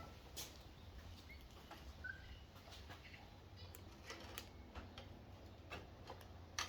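Faint, scattered metal clicks and taps of parts and tools being handled during work on a minibike's engine mounting, over a low steady hum.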